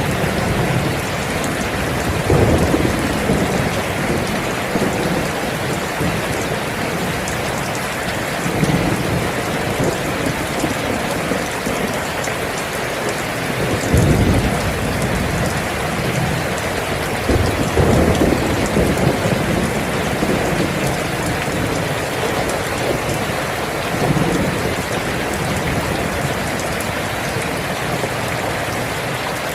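Steady rain falling, with several low rolls of thunder rumbling through it, the loudest about halfway through.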